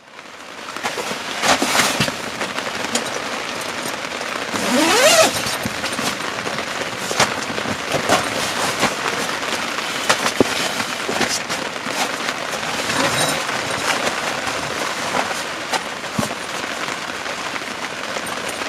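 Heavy rain drumming steadily on a canvas pup tent, with scattered sharp taps from drops. About five seconds in, a short rising call cuts through the rain.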